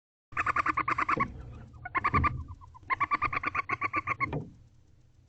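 Barn owl calling in a rapid pulsed series, three bouts of quick repeated notes, the last the longest, over a low steady hum.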